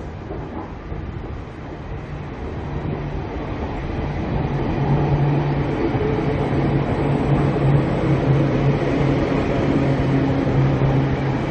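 Queensland Rail electric Tilt Train pulling into the platform, its rumble growing louder over the first few seconds as the carriages draw alongside, with a steady low hum under it.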